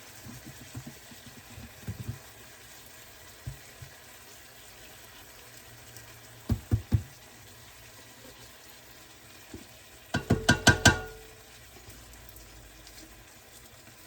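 Chicken breast in barbecue sauce sizzling gently in a frying pan on low heat, with a few light knocks of kitchen handling. About ten seconds in comes a quick run of clinks with a brief ring, the loudest sound.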